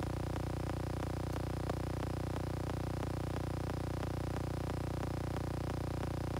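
Steady low electrical or mechanical hum with faint, regular ticking, about three ticks a second.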